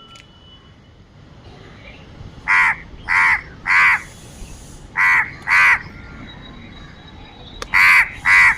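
A crow cawing: seven short, harsh caws in three groups, three in quick succession, then two, then two more near the end.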